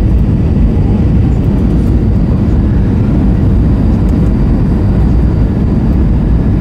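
Steady, loud rumble of jet engines and rushing air inside the cabin of an Airbus A321-232 with IAE V2500 engines, heard from a rear window seat.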